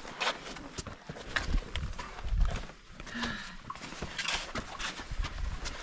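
Hikers' footsteps on sand and sandstone: irregular crunching and scuffing steps.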